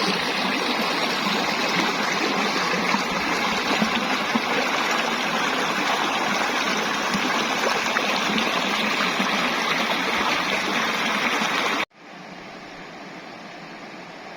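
Rushing stream, swollen with monsoon rainwater: a steady, loud rush of flowing water. It cuts off abruptly near the end, leaving only a faint hiss.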